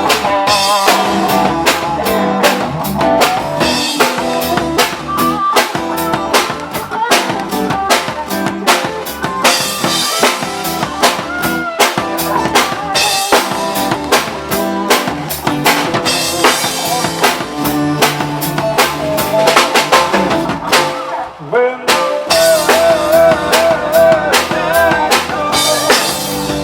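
Live band playing an instrumental passage with no singing: a drum kit keeps a steady beat with rimshots under pitched instrument lines, with a brief break about three-quarters of the way through.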